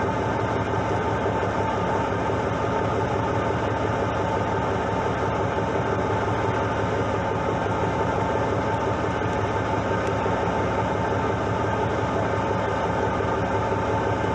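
Fishing boat's engine running steadily: a constant drone with a steady hum under a broad hiss.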